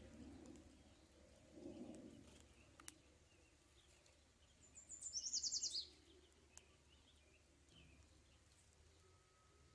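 A bird calling: one fast trill of high notes, falling slightly and lasting about a second, about halfway through, with faint scattered chirps and two brief clicks over a quiet background.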